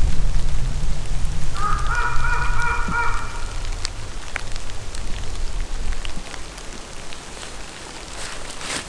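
Rain falling, with scattered drop ticks, under a low rumble that fades out about six seconds in. About a second and a half in, a drawn-out honking call with several stacked tones sounds for about two seconds. A short rustle comes near the end.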